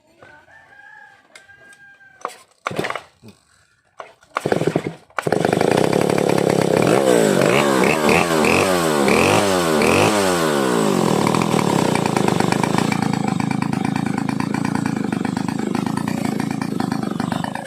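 Vintage Stihl 070AV two-stroke chainsaw starting up: a few short bursts, then it catches about five seconds in and runs loud, its revs rising and falling for a few seconds before it settles into steadier running.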